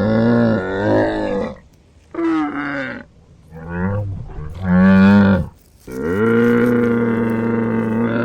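A camel calling: several short moaning calls that rise and fall in pitch, then one long, steady, drawn-out call near the end.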